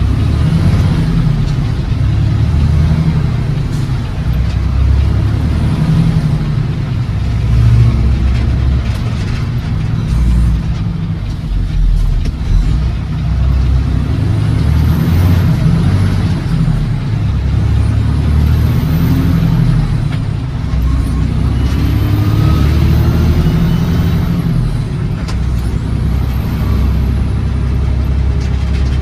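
Heavy truck engine and road noise on the move, a steady low rumble, with the engine pitch climbing for a few seconds about three quarters of the way through.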